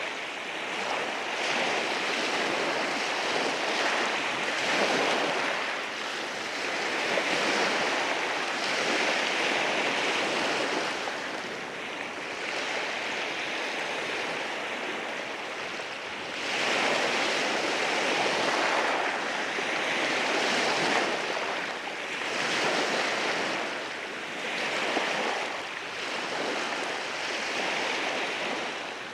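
Sea waves washing in over a rocky shore, a continuous rushing wash that swells and ebbs every few seconds, with a stronger surge about halfway through.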